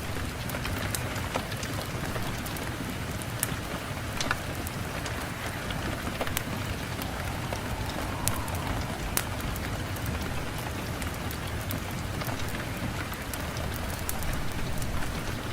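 Rain-and-fireplace ambience: steady rain with many scattered sharp crackles.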